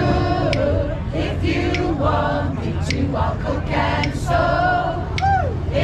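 A choir of men's and women's voices singing together.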